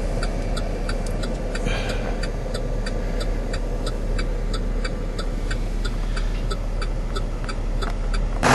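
Vehicle engine running steadily under a rapid, even ticking of about four ticks a second.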